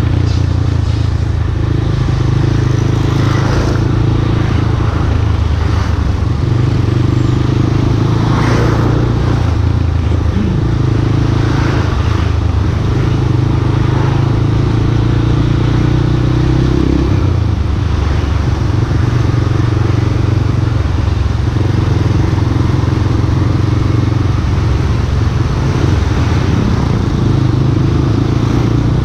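Yamaha Scorpio Z's single-cylinder four-stroke engine running as the motorcycle is ridden, with a steady rush of wind and road noise. The engine note steps up and down several times as the throttle and gears change.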